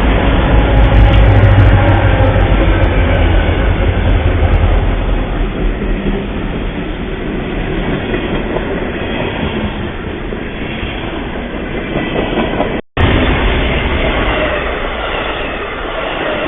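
Train passing, its heavy low rumble slowly fading. The sound drops out abruptly for a moment about 13 seconds in, then resumes. It is recorded through a trail camera's microphone, with no treble.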